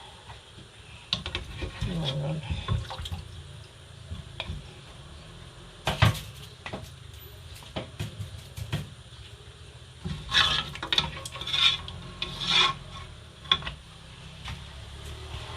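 Kitchen handling noises: scattered clicks and scraping of cookware and utensils, with one sharp knock about six seconds in and a run of scraping strokes from about ten seconds.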